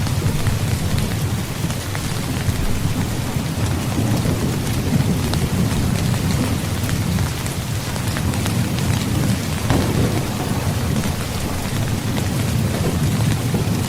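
Steady heavy rain with a fine patter of drops, over a continuous low rolling rumble of thunder that swells and eases.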